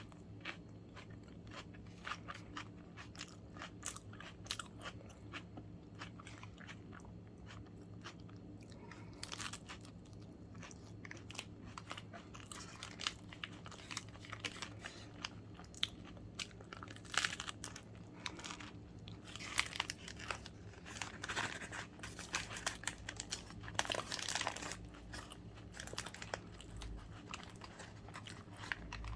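A person biting into and chewing a sandwich, with many short crunches and mouth clicks. They are busiest about two-thirds of the way through.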